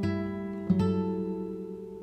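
Background music on acoustic guitar: a note plucked partway in, then the notes ring and slowly fade.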